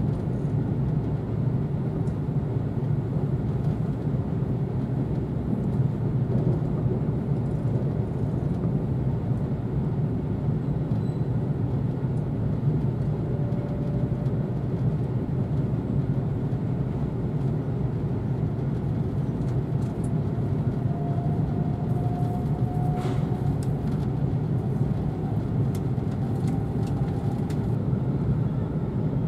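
Steady low running rumble inside the cabin of a moving E4 series double-decker Shinkansen, with a faint whine that rises slightly from about two-thirds of the way in.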